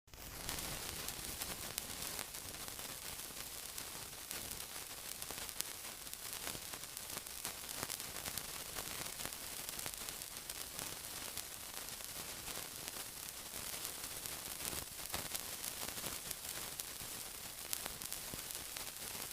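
Continuous sizzling: a steady hiss scattered with small pops and crackles, starting abruptly and fading out near the end.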